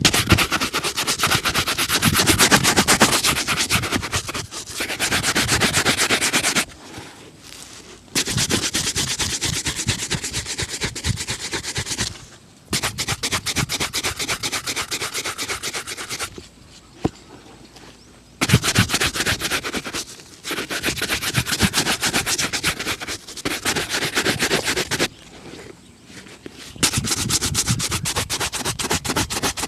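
Brisk, rapid back-and-forth rubbing strokes shining a leather shoe, in bouts of several seconds with short pauses between them.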